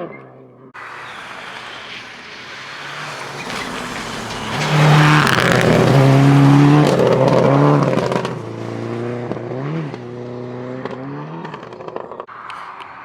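Rally car passing at speed: its engine note builds to its loudest about halfway through, with a hiss of tyre noise, then pulls away with the revs dipping and rising as it goes.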